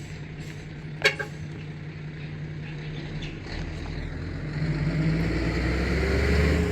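Steady low mechanical hum that swells into a louder rumble over the second half, with a single sharp click about a second in.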